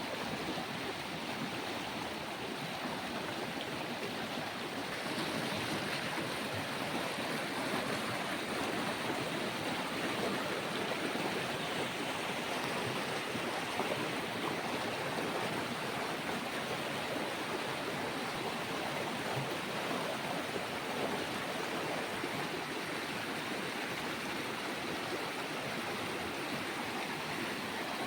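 Stream of water flowing with a steady rushing sound, a little louder about five seconds in.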